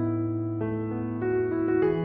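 Soft background piano music: sustained notes that change every half second or so over a held bass note.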